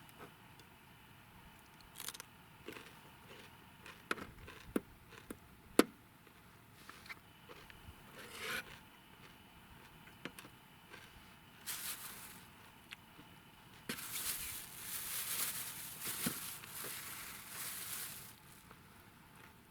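Handling noise: scattered sharp clicks and knocks, then several seconds of rustling and crinkling near the end.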